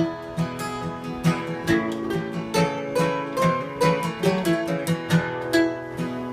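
Acoustic guitar playing a song's instrumental intro: chords strummed in a steady rhythm, about two strums a second, with a few picked melody notes in the middle.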